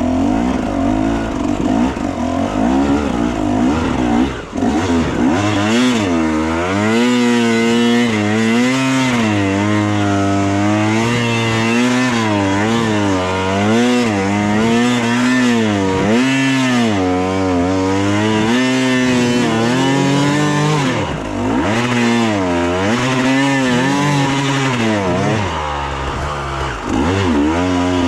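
Enduro motorcycle engine revving up and down over and over as the throttle is worked, with a brief drop in level about four seconds in.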